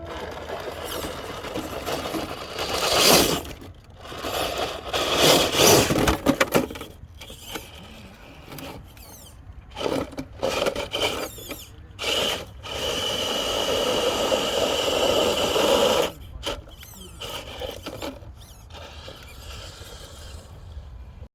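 Radio-controlled truck's electric motor and drivetrain whining in repeated bursts of throttle, with one longer steady run of about three seconds past the halfway point.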